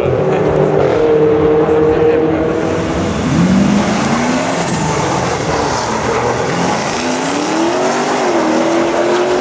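High-performance drag-race car engines revving hard, their pitch climbing in a sweep about a third of the way in and again near the end.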